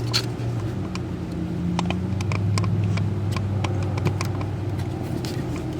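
Scattered clicks and taps of a blower motor and its mounting parts being handled and fitted back into the dash housing, over a steady low mechanical hum.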